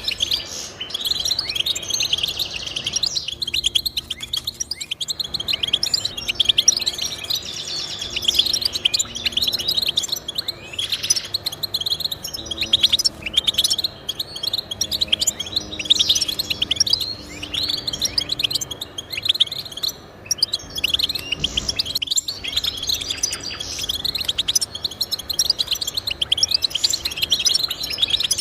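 Goldfinch singing: a continuous run of rapid, twittering chirps and trills.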